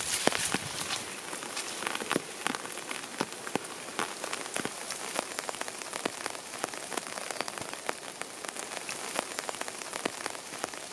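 Rain falling, many separate drops pattering steadily and unevenly.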